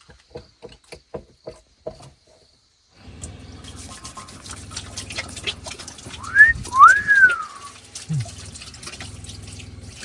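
A few light clicks, then about three seconds in water starts running from a campervan's newly fitted tap into the sink, with a steady low hum under it. In the middle comes a loud two-part whistle, each part rising and then falling, which is the loudest sound here.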